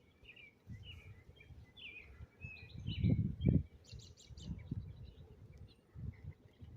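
Small birds chirping outdoors: a run of short rising and falling notes through the first few seconds, fading out after about four seconds. Low irregular rumbles of wind or handling on the microphone run underneath and are loudest about three seconds in.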